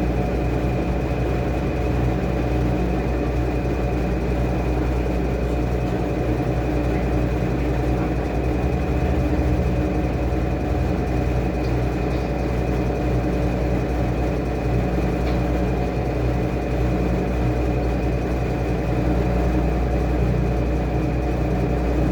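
Washing machine running: a steady motor hum with a thin, constant high whine.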